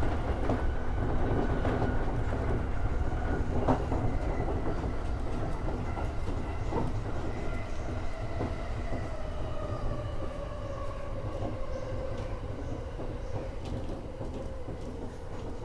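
E231 series electric train's traction motors whining under the running rumble, the whine slowly falling in pitch as the train brakes for a station, with a few clicks from the wheels over rail joints.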